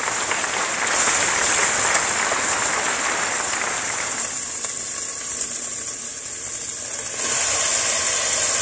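Sliced onions and garlic sizzling in hot oil in a stainless steel pot, stirred with a wooden spoon. The sizzle eases a little around the middle and grows louder again near the end, as shrimp fry in the pot.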